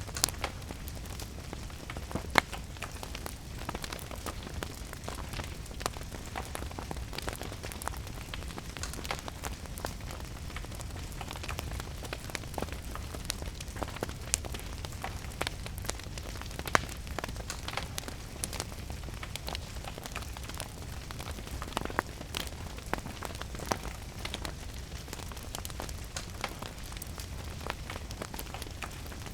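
A wood fire crackling in a fireplace, with irregular sharp pops, a couple of them louder, over the steady patter of rain.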